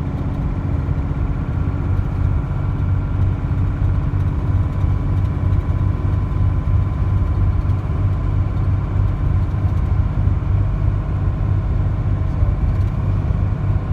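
Dodge pickup's diesel engine running steadily while the truck is driven in gear: a continuous low drone.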